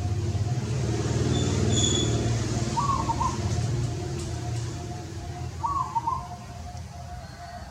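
A low motor hum that swells and then fades, with a bird's short call repeating about every three seconds.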